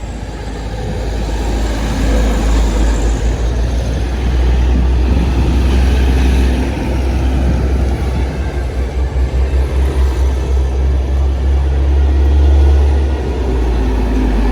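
Heavy diesel trucks passing close by, their engines running with a deep rumble. It builds over the first couple of seconds, stays loud, swells to its loudest near the end and then eases off.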